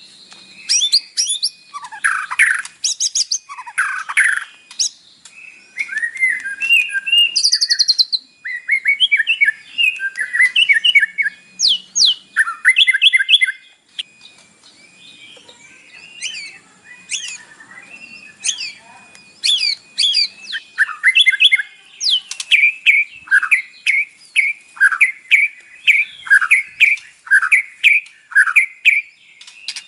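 White-rumped shama singing a varied song of clear whistles and fast chattering phrases, filled with mimicked calls of other birds. There is a brief lull about halfway through, and near the end a run of evenly repeated notes, about two a second.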